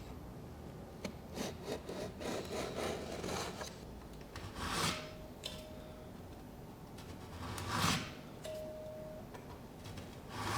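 Hand tool cutting and scraping into cedar to finish a groove, with short scattered rasping strokes and then two longer, louder strokes about three seconds apart.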